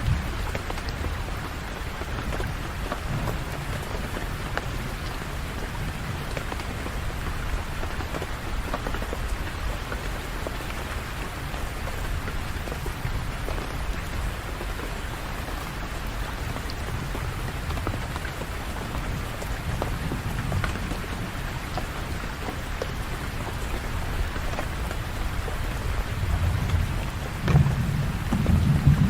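Steady rainfall pattering, with a low roll of thunder swelling near the end.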